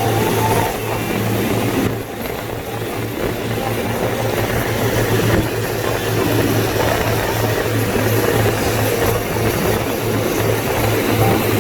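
Car driving in rain, heard from inside: steady engine and road noise with a constant hiss and a throbbing low hum.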